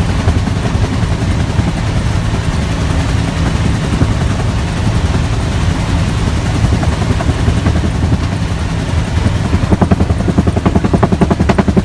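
Bell UH-1 Huey helicopter in flight: its two-bladed main rotor beats in a fast, even rhythm over the steady engine rumble. The blade beat grows sharper and louder near the end.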